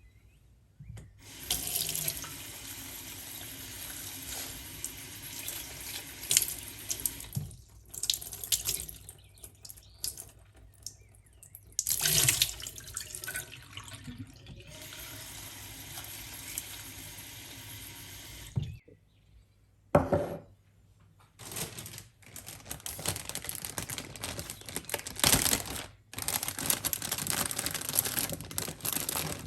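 Running water, as from a tap, in several stretches that start and stop abruptly, with a few sharp knocks among them.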